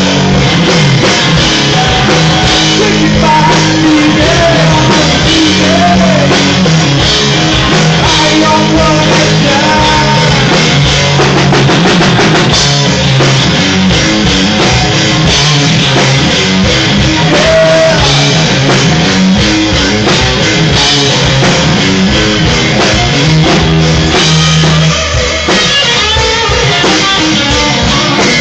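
Rock band playing a song: drum kit, electric guitar and bass with singing, loud and continuous.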